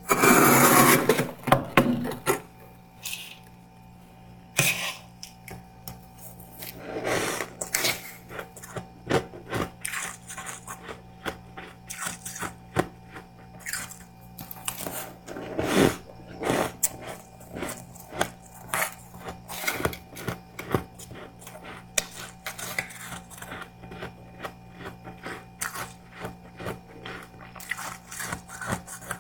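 Close-miked crisp crunching and crackling of soft freezer frost ('snow ice') being bitten and chewed, in irregular crunches, with a dense loud burst of crunching at the start.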